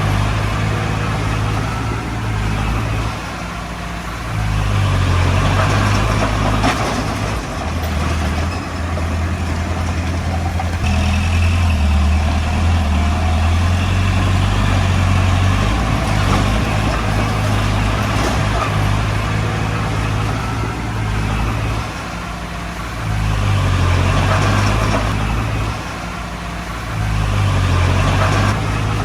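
Komatsu D20P bulldozer's diesel engine working under load, its note swelling and easing off several times as the dozer pushes and backs off.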